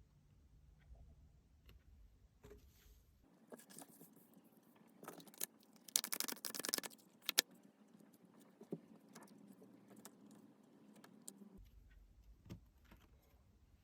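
Tarot cards being shuffled and handled: scattered soft card clicks and rustles, with a dense run of rapid flicking clicks about halfway through.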